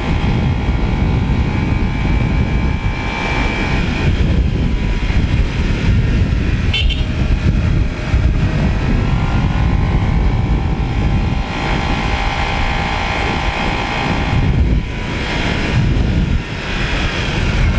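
Motorcycle riding in traffic, heard from the rider's helmet or bike microphone: a steady engine hum with slight changes in pitch under heavy wind rumble.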